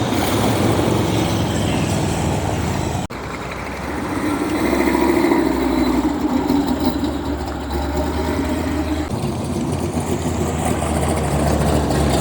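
Car engines idling and rumbling steadily as cars pull past, with a brief break about three seconds in and a louder engine note a little after.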